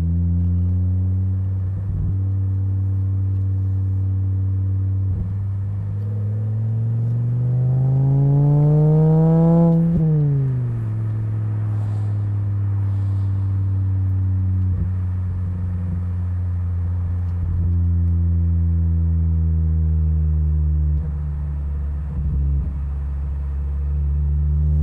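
Naturally aspirated inline-five of a 2004 Volvo V70 2.4 running through a Borla XR1 muffler, cruising at steady revs. About six seconds in, the revs climb under acceleration for roughly four seconds, then fall quickly and settle back to a steady cruise. A brief dip comes about 21 seconds in, and the revs start to rise again at the end.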